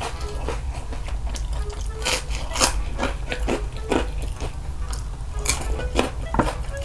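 Close-up mouth sounds of a person chewing a crispy deep-fried shrimp snack: irregular sharp crunches and wet chewing.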